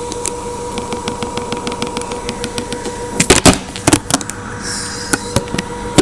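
LG washing machine running its spin cycle: a steady hum under a rapid, even run of clicks, then a few loud knocks about three to four seconds in and a couple more near the end.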